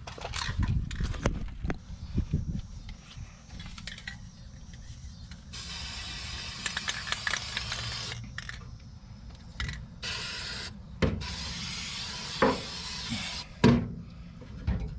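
Aerosol spray paint can sprayed in two long bursts of hiss, one of about two and a half seconds and one of about three seconds, coating the car's wheel well. Rubbing and knocks of the can being handled come before the first burst, with a few sharp knocks near the end.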